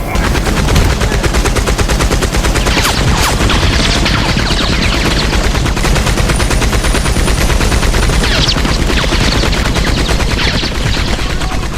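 Sustained rapid machine-gun fire, a dense continuous stream of shots, with a few louder separate shots cracking over it.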